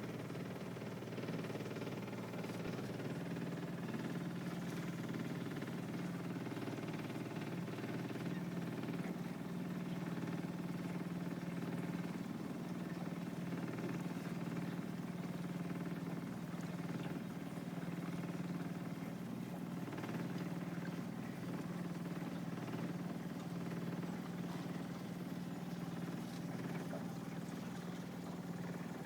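Boat engine running steadily at an even speed, a constant-pitched drone.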